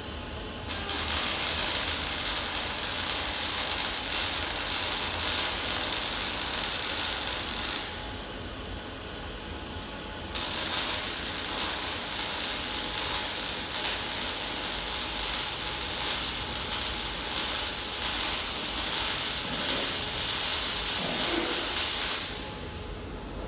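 Two long bursts of loud, steady hissing noise, the first about seven seconds long and the second about twelve, each starting suddenly; the second dies away over about a second.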